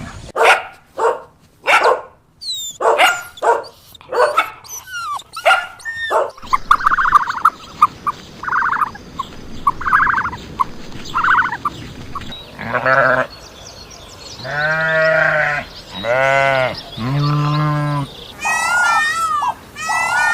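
Farm animals calling in quick succession. Short sharp calls for the first six seconds are followed by a run of short, evenly spaced calls. Then come three long bleats of about a second each from goats or sheep, and high wavering calls near the end.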